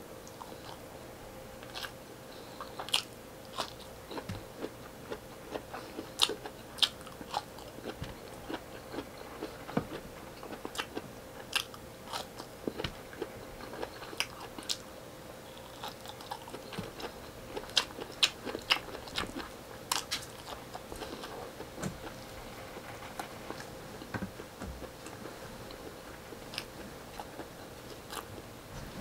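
Close-up mouth sounds of a person chewing and biting into a meal of fried tilapia, rice and vegetables eaten by hand: irregular sharp crunches, clicks and smacks, several times a second at the busiest moments.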